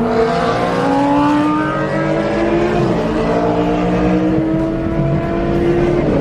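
Car engine accelerating hard, its pitch climbing steadily through a gear, with an upshift about three seconds in and another right at the end.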